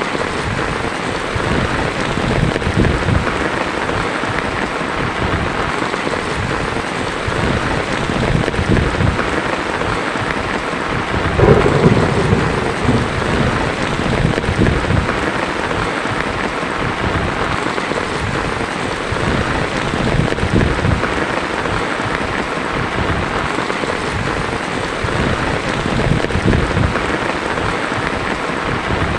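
Heavy rain falling steadily on a tin roof, with a low roll of thunder a little under twelve seconds in.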